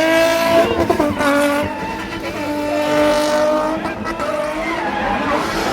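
BMW E30's six-cylinder engine held at high revs during a drift or spin run, its pitch dipping briefly about a second in and climbing again near the end, with tyres squealing.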